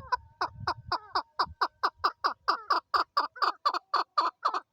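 Chukar partridge calling: a rapid, even run of short clucking notes, about five a second, growing louder as the call goes on.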